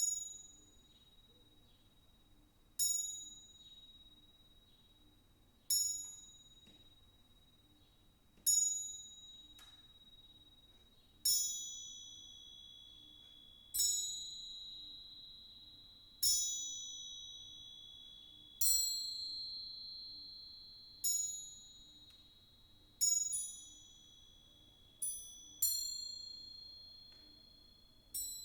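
Crotales (antique cymbals) struck one note at a time, each high bell-like note ringing on. The strokes fall about every two and a half to three seconds at first and come closer together near the end, with two pitches ringing together in the later strokes.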